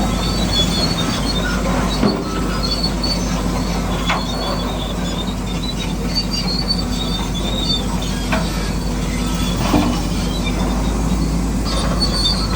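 Electric motors and gearing of radio-controlled construction models running steadily, with high squeals that come and go. A few short knocks are heard around 2, 4, 8 and 10 seconds in.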